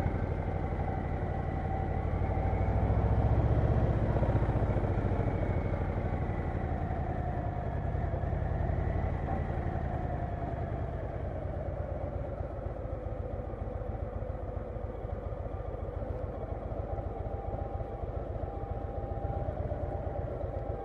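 Harley-Davidson Low Rider S V-twin engine running on the road, loudest a few seconds in, then easing off and slowing so that its separate firing pulses come through, with a faint whine that falls gradually in pitch.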